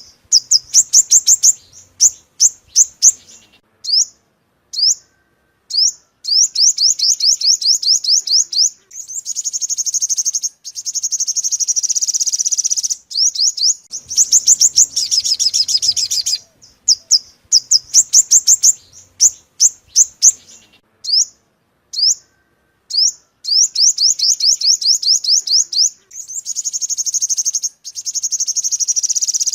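Sunbird song used as a lure: high-pitched, rapid trills of sharp notes alternating with short single chirps, with brief pauses between phrases. The same run of phrases comes round again about halfway through, as a looped recording does.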